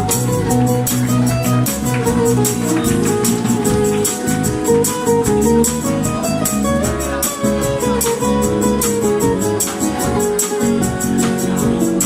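Acoustic band playing an instrumental passage: acoustic guitar with a tambourine shaking a steady, quick beat.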